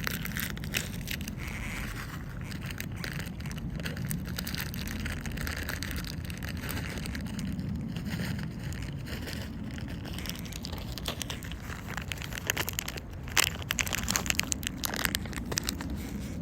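Wind buffeting and crackling on a phone's microphone over a steady low rumble, aboard a moving boat. Sharper crackles come thicker in the last few seconds.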